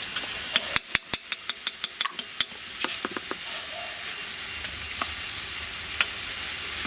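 Metal spoon clinking rapidly against a bowl, about eight clicks a second for two seconds, then a few scattered taps, as spice powders are mixed for a masala paste. Under it runs a steady hiss of frying.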